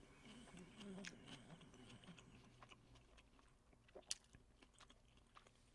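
Faint chewing and mouth sounds of a person eating, with a couple of small soft clicks about four seconds in; otherwise near silence.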